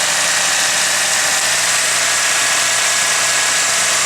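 Nissan 180SX's four-cylinder engine idling roughly and steadily just after being brought back to life, with a lawnmower-like sound. It seems to be running on only three cylinders, which the owner puts down to a coil pack or to old fuel.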